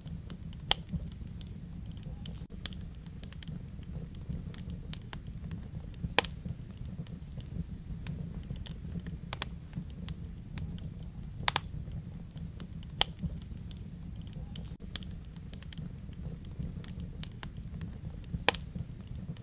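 Wood fire burning in a fireplace, crackling with irregular small snaps over a steady low rumble of flame. Sharper, louder pops come about a second in, and again around six, eleven, thirteen and eighteen seconds in.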